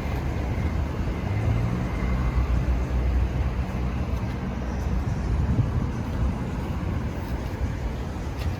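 Ram 3500's Cummins turbo-diesel inline-six idling steadily, with a low, even rumble.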